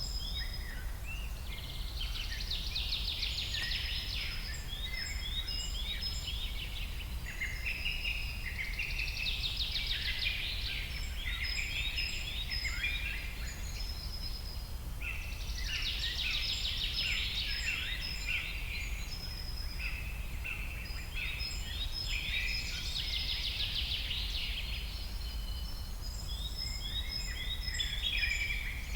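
Several birds singing and calling at once, with a dense trilled song phrase that comes back about every six or seven seconds, over a steady low rumble.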